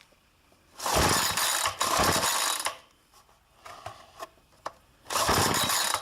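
Two-stroke string trimmer being pull-started cold, with two long pulls on the recoil starter a few seconds apart. The engine turns over without catching.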